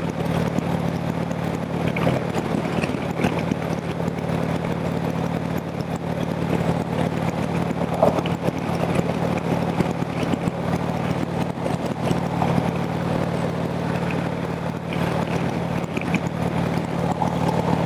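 Harley-Davidson V-twin engine running at a steady cruising speed under heavy wind rush on a handlebar-mounted camera's microphone. The pitch holds steady throughout.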